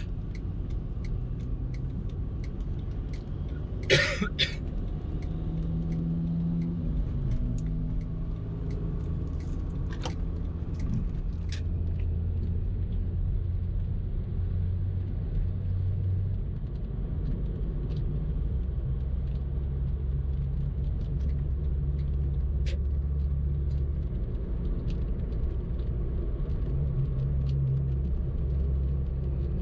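A car being driven, with a steady low rumble of engine and road noise whose low hum shifts in pitch now and then. There is one short, loud, sharp sound about four seconds in.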